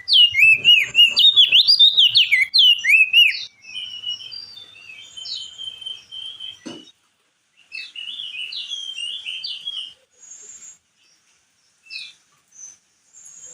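Crested heleia (opior jambul) singing: a loud, fast run of whistled notes gliding up and down for the first three seconds or so, then quieter warbled phrases, and a few short calls near the end.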